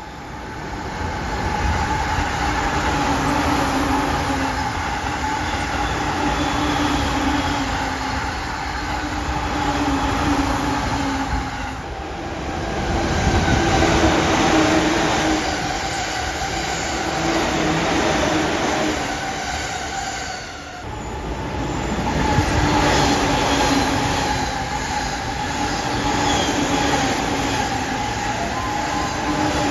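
JR East E531 and E231 series electric commuter trains passing close by at speed, three passes one after another. There is a continuous rumble and clatter of wheels on rail with a steady whine over it. The sound drops briefly between passes, about twelve seconds in and again about twenty-one seconds in.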